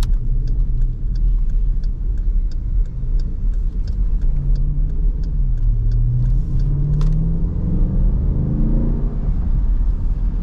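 SRT Jeep's V8, heard from inside the cabin, running with a low rumble. Its pitch dips and then rises steadily from about six to nine seconds in as it accelerates, over a steady hiss of tyres on a wet road.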